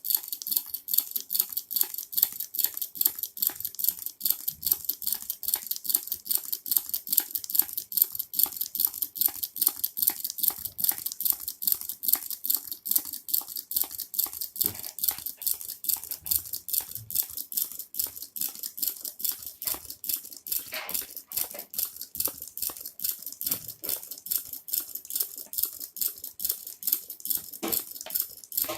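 Small homemade hot air engine running, clicking sharply in a steady rhythm of about four clicks a second.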